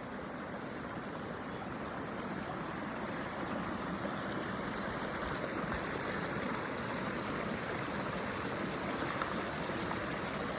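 A creek rushing steadily: continuous running water that grows slightly louder over the first few seconds.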